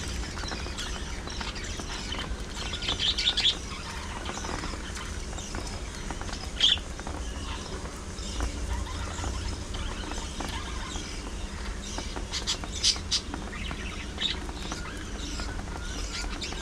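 Budgerigars chirping and chattering continuously, with a few louder sharp calls standing out, over a steady low hum.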